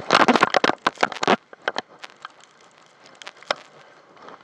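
Water splashing and spray spattering against a towed inflatable, loud and dense for about the first second and a half, then thinning to scattered drips and pops.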